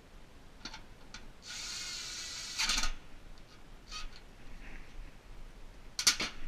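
Cordless drill driving a bolt into the mower's recoil starter housing: the motor whines steadily for about a second and a half and ends in a short, louder rattle as the bolt seats. Light tool clicks come before and after, and a sharp metal clank comes near the end.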